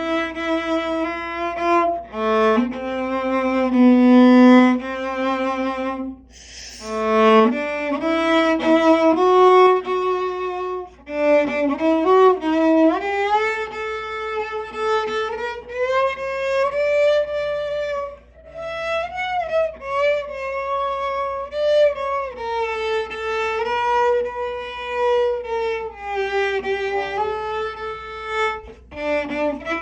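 Solo cello playing a slow legato melody, held bowed notes with vibrato and short breaks between phrases. A brief noisy burst sounds about seven seconds in.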